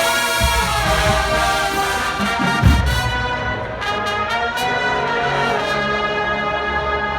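Marching band brass section playing, trumpets and trombones holding sustained chords over bass drum, with a heavy drum hit a little under three seconds in.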